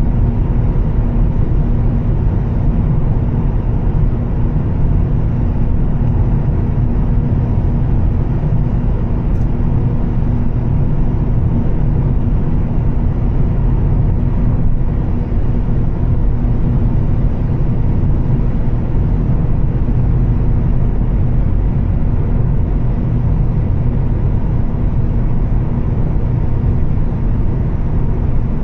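Volvo S60 T6's turbocharged straight-six holding a steady drone at constant cruise, under a steady bed of tyre and road noise. There is no revving or gear change.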